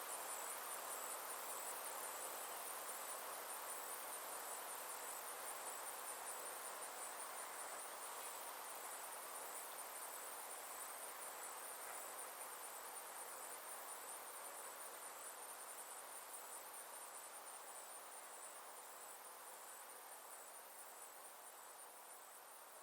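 Summer insects trilling steadily in a high, rapidly pulsing chorus over a soft hiss, gradually fading out.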